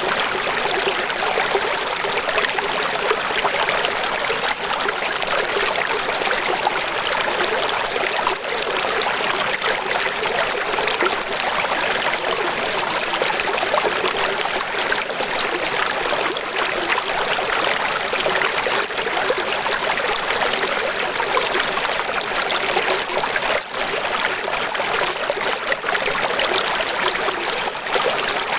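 Running water splashing and rushing steadily, like a small waterfall or stream, with a bright hiss and little low rumble.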